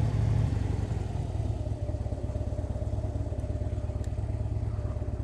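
Harley-Davidson Dyna Street Bob's Twin Cam 103 V-twin with Vance & Hines Straight Shots slip-on mufflers, idling with an even pulse just after being started without a rev. It is a little louder for the first half second, then settles into a steady idle.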